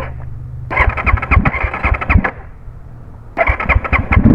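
Crossfire IM250 dirt bike engine being started: a stretch of uneven cranking and sputtering, a short lull, then about three and a half seconds in it catches and runs loudly, revving up near the end.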